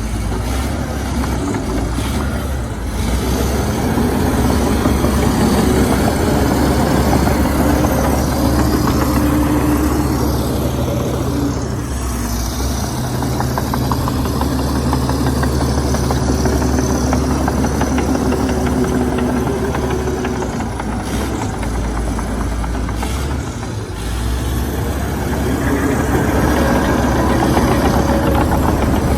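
Komatsu D61EX bulldozer's diesel engine running under varying load, swelling about 4 s in, easing off around 23 s, and picking up again near the end.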